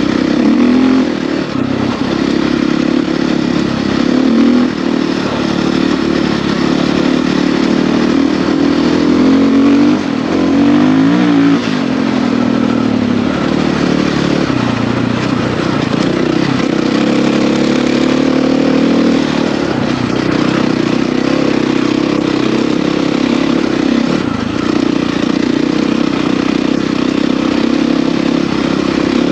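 Husqvarna FE450 enduro dirt bike's single-cylinder four-stroke engine running while riding, the revs rising and falling with the throttle, in a quick run of rises and falls about ten seconds in.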